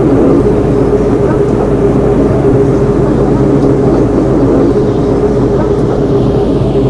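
MTR M-Train electric multiple unit giving a steady mechanical drone, with several unchanging hum tones over a noisy rumble.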